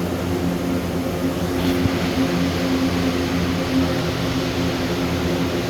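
Steady mechanical hum holding several constant low tones.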